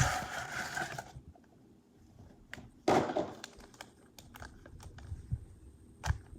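Trading cards and their packs being handled on a table: a brief rustling burst about three seconds in, scattered light clicks and taps, and a soft knock near the end.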